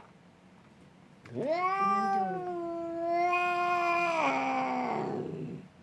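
Bengal cat giving one long drawn-out yowl, steady at first, then dropping in pitch and turning rough and growly near the end.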